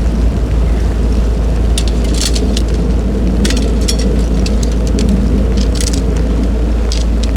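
Strong gusty wind buffeting the microphone in a snowstorm: a steady, loud, low rumble with scattered small ticks.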